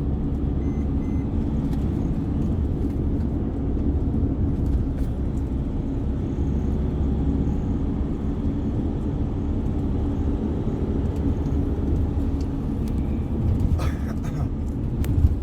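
Steady engine and road rumble heard from inside a moving tour coach, with a short sharp knock just before the end.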